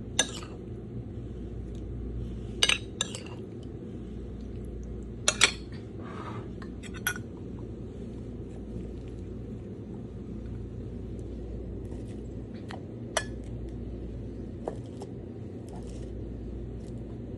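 Cutlery clinking against a plate during a meal: a few sharp, separate clinks, more of them in the first half, over a steady low hum.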